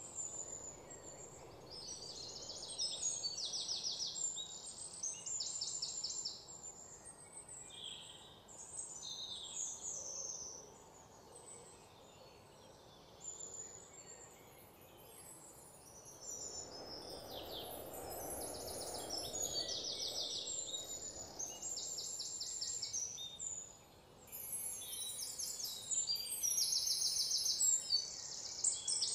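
Several birds calling and singing together, with many short chirps and fast high trills, over a steady low outdoor hiss that swells for a few seconds in the middle.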